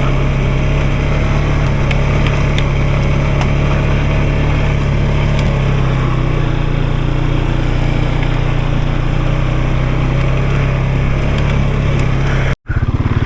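Off-road vehicle engine running steadily at an even, low speed while riding a rocky trail. The sound cuts out completely for an instant near the end.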